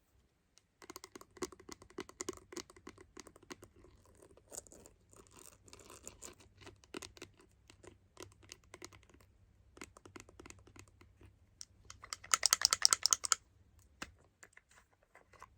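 Close-up ASMR tapping and scratching on a smartphone's camera lens: dense quick clicks and scratches, with a louder stretch of fast scratching about twelve seconds in lasting over a second.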